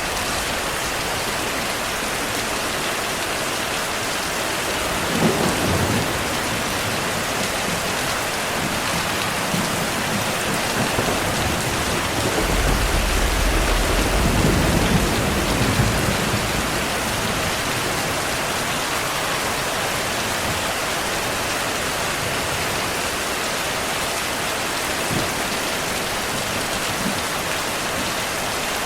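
Heavy steady rain pouring, with rolls of thunder: a short low rumble about five seconds in and a longer, louder one from about twelve to sixteen seconds in.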